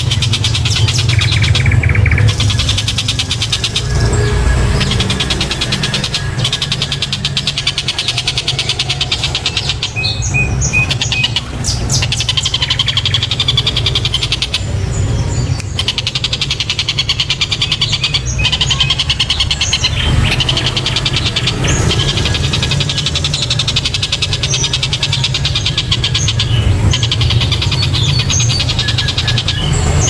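Dollarbird (tengkek buto) calling on and on in a loud, fast rattling chatter of many notes a second, with a few brief breaks, over a steady low hum.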